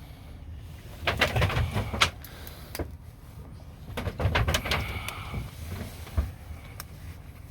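A captured seagull struggling in people's hands, with two bouts of rustling and scuffling, its wings flapping against hands and clothing.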